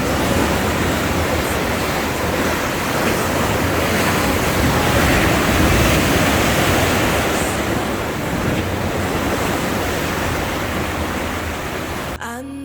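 Sea surf washing in a steady rush that swells to a peak midway and then eases. It starts and stops abruptly.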